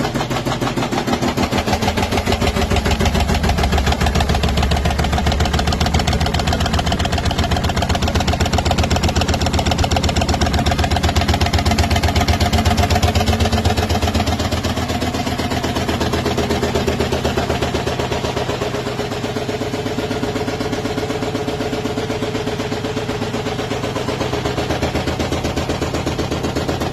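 LG washer-dryer in its spin cycle, the drum (basket) banging against the cabinet in a fast, steady run of knocks over the motor's hum. The knocking is the noise fault the machine has while spinning.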